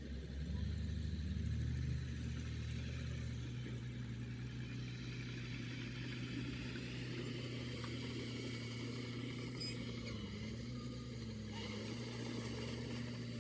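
Diesel engine of heavy earthmoving machinery running, swelling louder over the first two seconds and then holding a steady note with slight dips in pitch.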